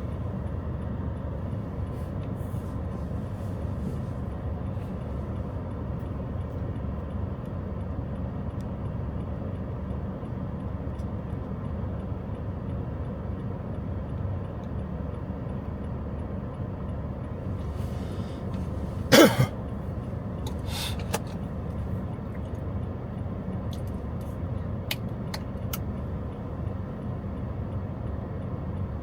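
Steady low rumble of a vehicle on the move, with one short, sharp, loud sound about two-thirds of the way through and a few faint clicks after it.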